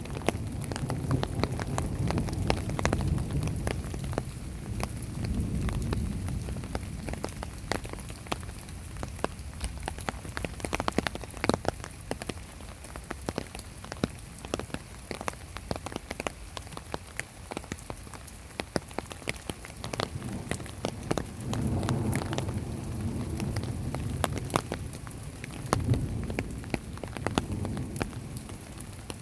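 Heavy rain falling steadily, with many close drops ticking sharply on a hard surface. Low rolling thunder rumbles through the first several seconds and again twice in the last third.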